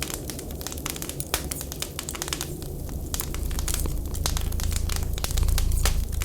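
Wood fire crackling and popping with dense, irregular sharp snaps. A low rumble underneath swells about halfway through and is loudest near the end.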